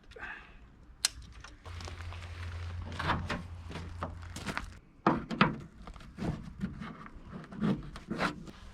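A string of thunks, clicks and rustles as a truck-bed tent's straps and clips are handled and fastened to a pickup truck's bed and tailgate.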